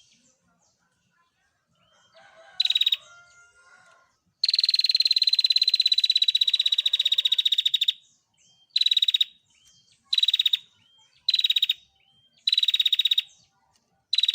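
Female prenjak (prinia) giving its rapid, dry trill: one long trill of about three and a half seconds, then a run of short trills about a second or so apart, with faint short upturned notes between them.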